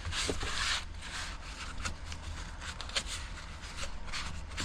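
Scratchy rubbing strokes as dirt is scrubbed off a weed eater's motor: one longer stroke at the start, then a run of short ones at uneven spacing.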